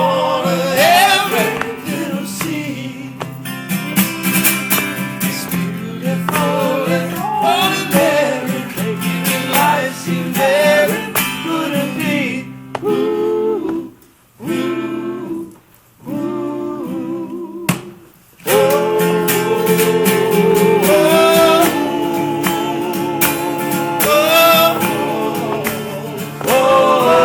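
Live band playing, with guitar and wordless singing. Near the middle the music drops out almost to nothing twice in quick succession, then comes back in fuller.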